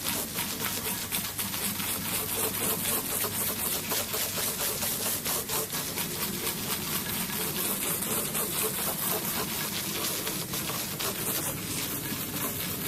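A brush scrubbing a soapy steel wheel: rapid scratchy strokes that keep up without pause.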